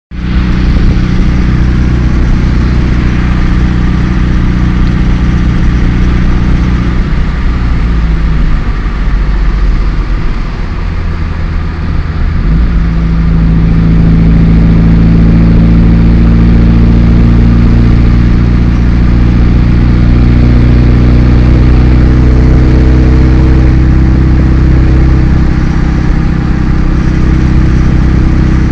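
Car engine running, its speed sagging about eight seconds in and picking up again around twelve seconds, then held steady a little higher. A rattling noise from the engine bay comes in near the end, which the owner doubts is a rod knock.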